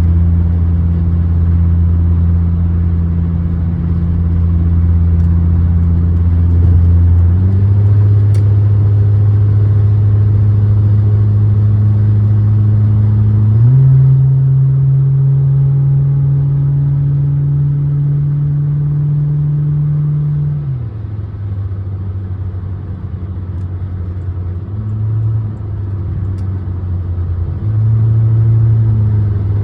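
Car engine droning steadily at held speeds. The pitch steps up about seven seconds in and again near fourteen seconds, then drops back about twenty-one seconds in as it gets a little quieter.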